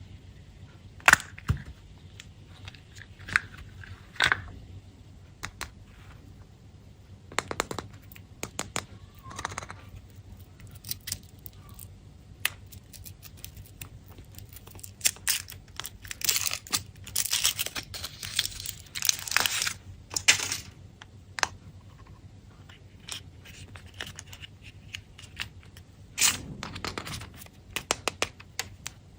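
Candy wrappers being crinkled and torn open by hand, with scattered sharp clicks and taps; the crinkling is thickest about halfway through.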